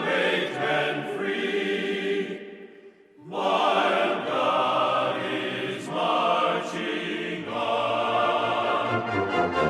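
Choral music: a choir singing, breaking off into a short pause about two and a half seconds in, then coming back in.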